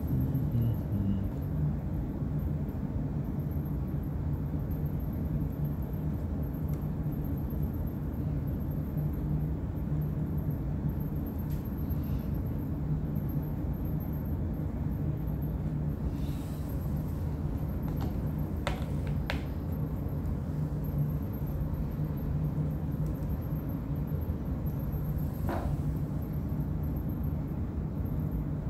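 Steady low hum of background noise with a band near 150 Hz, with a few faint short ticks about two-thirds of the way through.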